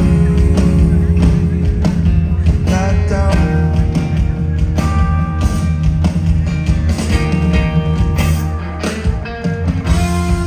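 Live rock band playing loudly through a PA, with electric guitar, bass and drums.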